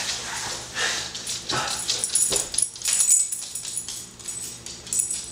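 A puppy whining and whimpering in a run of short, high-pitched cries.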